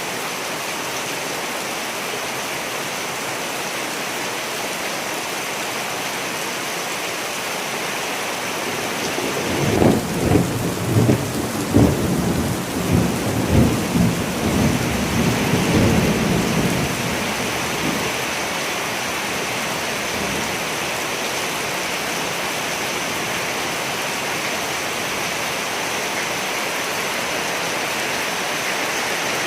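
Steady heavy rain falling, with a roll of thunder about ten seconds in that rumbles in several loud cracks and peals for some seven seconds before fading back into the rain.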